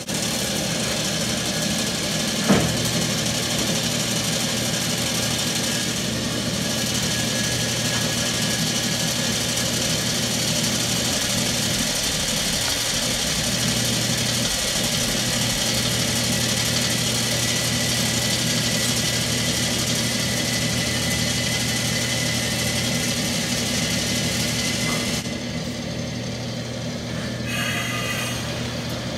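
1939 Bennett 541 gas pump's motor and belt-driven pump unit running with a steady hum and hiss while pumping diesel fuel. A single sharp clack comes about two and a half seconds in, and the higher hiss drops away about 25 seconds in.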